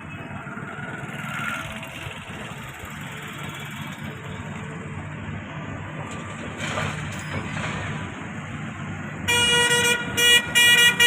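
Vehicle engine running with a steady low rumble; near the end a vehicle horn sounds, one held blast and then a series of short toots.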